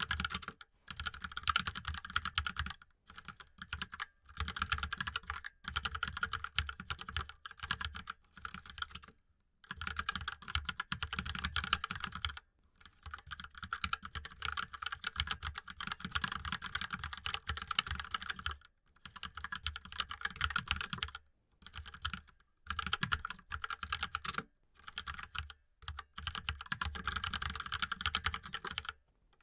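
Mechanical keyboard being typed on: fast runs of key clicks broken by short pauses every few seconds.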